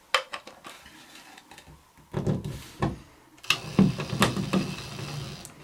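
Irregular sharp clicks and knocks of hard objects being handled: a few near the start, then two denser clusters of clatter about two and three and a half seconds in.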